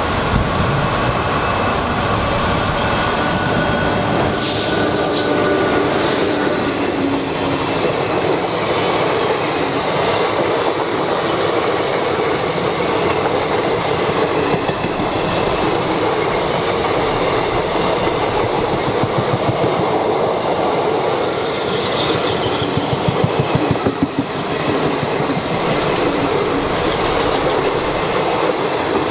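Passenger express train running on the track, its wheels clattering steadily over the rails, with a spell of sharp high clicks a few seconds in.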